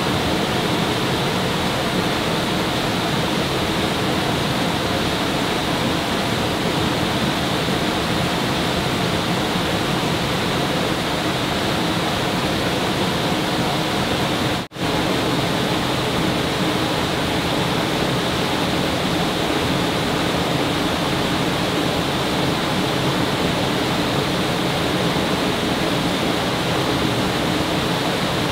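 Steady rushing water, a loud even wash of flowing water, broken by a brief dropout about halfway.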